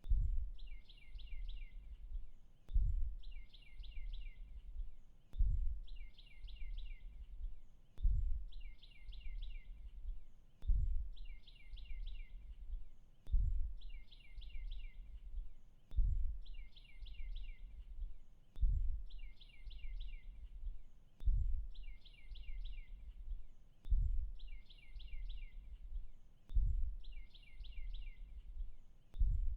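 A short bird call of four or five quick high notes, repeating identically about every two and a half seconds. Each call starts with a low thump, over a steady low rumble.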